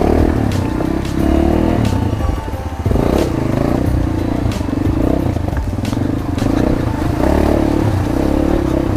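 Motorcycle engine running as the bike is ridden over a rocky road, its note swelling and easing every second or so, with scattered clattering knocks from the stones.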